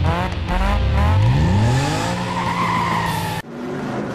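Cartoon sound effect of a vehicle engine revving up, its pitch rising, followed by a high tyre squeal. Both cut off suddenly about three and a half seconds in.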